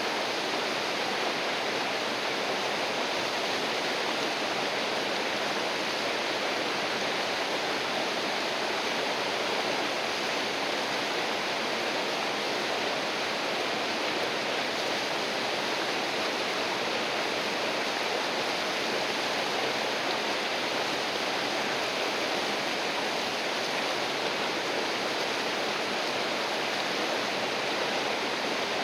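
River water flowing and rushing steadily, a constant even roar of moving water.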